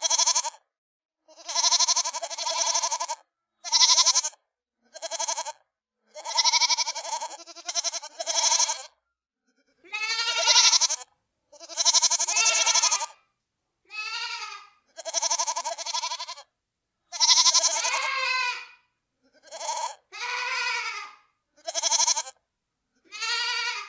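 Goats bleating: a string of about fifteen separate bleats with short silent gaps between them, several with a wavering, quavering pitch.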